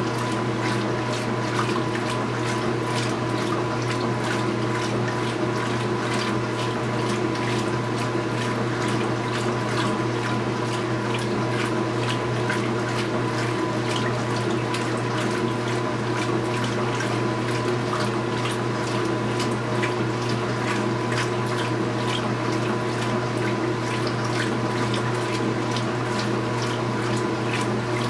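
Speed Queen top-load washing machine filling with warm water: a steady rush of water pouring into the tub, over a steady machine hum.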